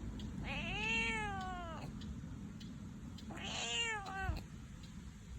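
Domestic cat meowing twice: a long, arching meow, then a second meow that falls and breaks at its end.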